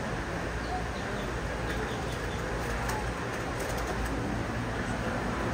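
Birds calling over steady outdoor background noise.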